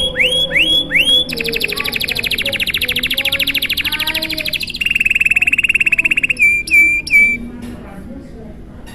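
Domestic canary singing a long rolling song. It opens with three rising sweeping notes, runs into a long, very fast trill, drops to a lower steady trill, and ends with three short notes about seven seconds in.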